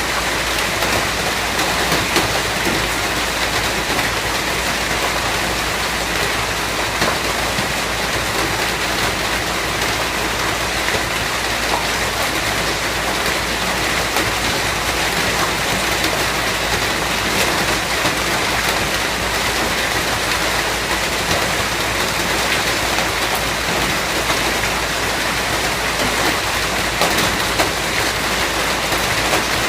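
Steady, heavy rain falling on surfaces, a dense even hiss with many small scattered drop ticks.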